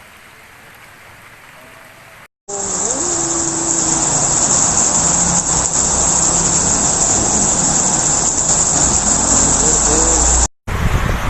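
Loud, steady rushing of rain, wind and water in a storm, with faint voices beneath. It starts abruptly about two seconds in, after a quieter stretch, and cuts off shortly before the end.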